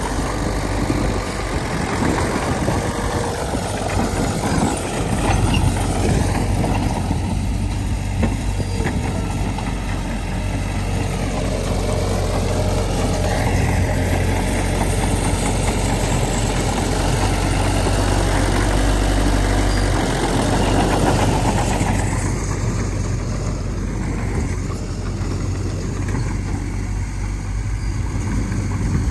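Diesel engine of heavy earthmoving machinery running steadily with a low hum; its note shifts about two-thirds of the way through.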